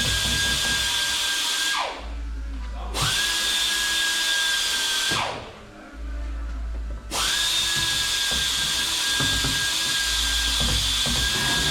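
A high-pitched power tool running with a steady whine and hiss. It winds down and spins back up twice.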